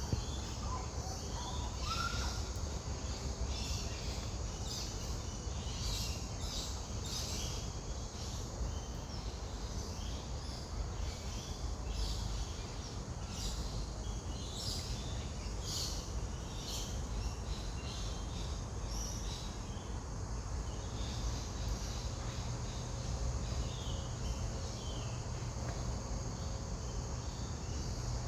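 Small birds giving short high calls every second or so over a steady chirring of insects, with a low rumble underneath.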